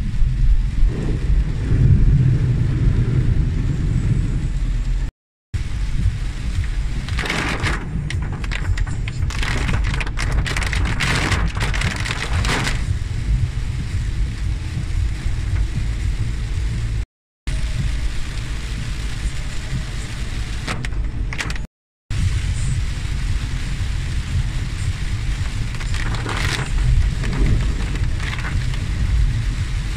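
A car driving in heavy rain: a steady low road and engine rumble with rain on the car, and louder spells of water splashing and pouring over it several seconds in and again near the end, typical of waterfalls running across the road. The sound cuts out briefly three times.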